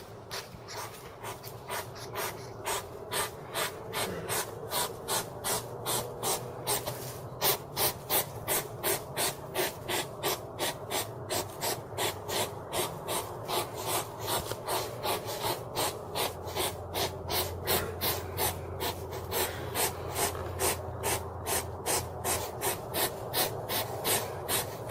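Hedgehog making a steady rhythm of short, clicky snuffling sounds, about two or three a second.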